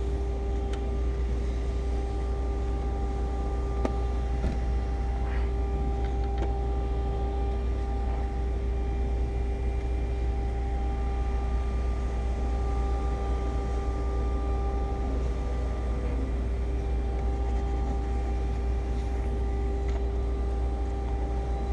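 A steady mechanical hum with a constant whine over a low rumble, and a few faint clicks and taps about four to six seconds in.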